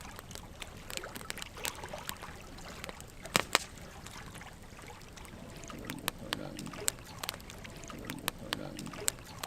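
Wood campfire burning, logs crackling with frequent sharp irregular pops, the loudest a pair of pops about three and a half seconds in.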